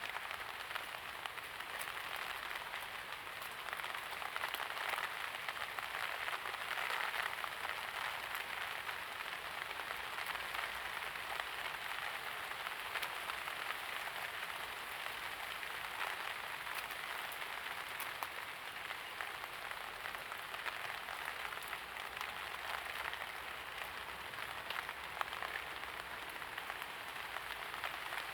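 Steady light rain falling, a continuous patter of many fine drops.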